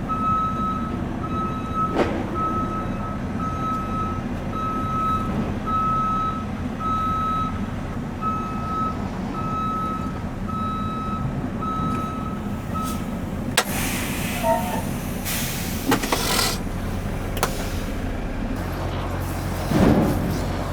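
Semi truck's diesel engine running as it reverses, with its backup alarm beeping about once a second; the beeping stops about two-thirds of the way through, followed by several short hisses of air from the air brakes.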